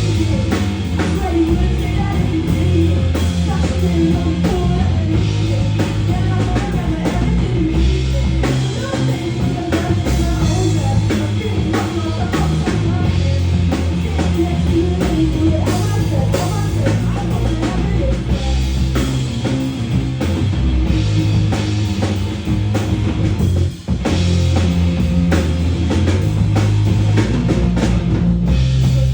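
Live rock band playing a sound check: drum kit and guitar over a heavy bass line, with one brief break about three-quarters of the way through.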